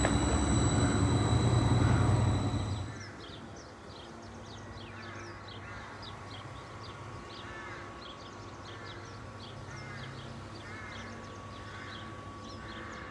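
A train passing over the level crossing, with steady high squealing tones, fades away about three seconds in. After it, a bird chirps repeatedly over a faint steady background hum.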